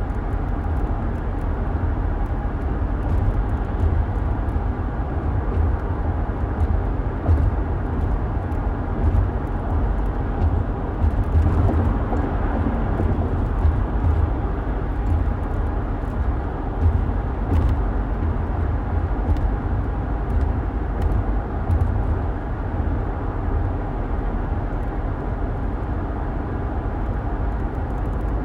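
Steady road noise of a moving car heard from inside the cabin: a low rumble of engine and tyres with a haze of road and wind noise, swelling slightly about halfway through.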